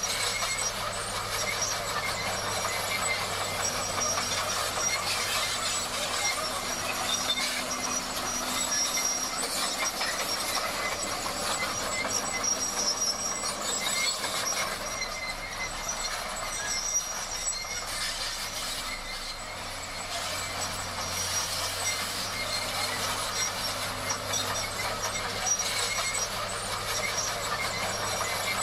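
Crawler bulldozer at work: the diesel engine running under a steady clatter of steel tracks, with a thin high squeal from the track running gear.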